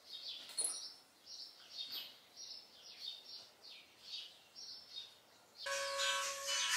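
A bird chirping over and over, short high falling calls about twice a second. Near the end, background music with steady held notes comes in over it and is louder.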